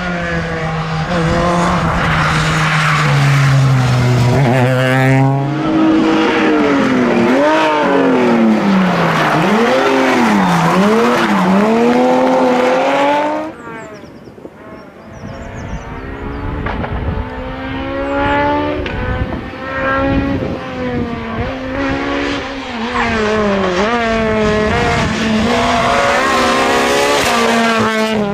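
Rally car engine at full throttle, its pitch swinging up and down quickly as the driver shifts and brakes between corners. About halfway through it drops away suddenly, then a rally car comes back in accelerating hard through the gears.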